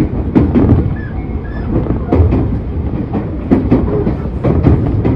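Tobu 30000 series electric train running, heard aboard: a steady low rumble with the wheels clacking over rail joints in close pairs every second or so.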